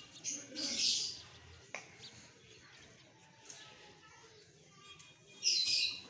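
Birds chirping in two short, loud bursts of high calls, one near the start and one near the end, with a single sharp click in between.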